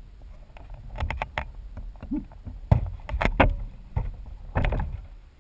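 Irregular knocks and rattles with a low rumble of wind, heard from a camera mounted inside the foam fuselage of a model airplane as it is handled on the ground.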